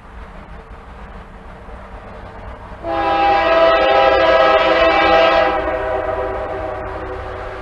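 Diesel locomotive air horn sounding one long blast of several notes at once, about three seconds in, then trailing off. A low locomotive rumble runs underneath.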